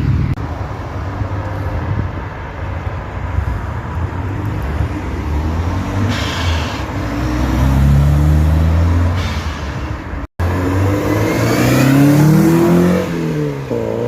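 Car engine revving. Its pitch climbs and falls several times, and the sound cuts out briefly about ten seconds in.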